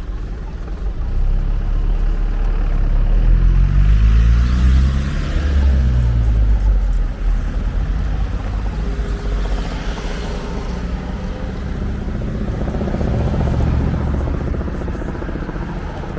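Motor vehicles passing close by on the street. One engine's drone rises and then drops in pitch as it goes past about four to six seconds in, and a second, quieter one passes later.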